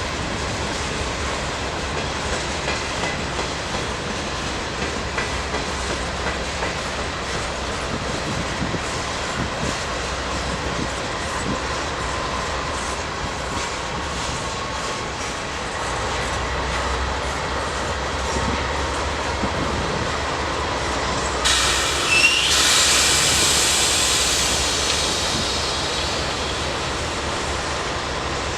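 Freight train cars rolling past, their wheels clicking steadily over the rail joints. About two-thirds of the way through comes a louder burst of hiss with a brief wheel squeal.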